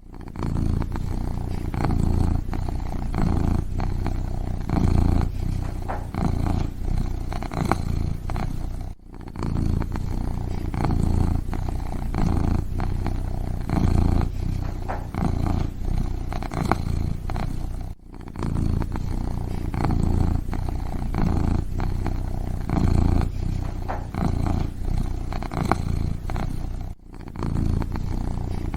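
Kitten purring steadily up close, swelling and easing in a slow rhythm about every second and a half, with a brief drop-out about every nine seconds.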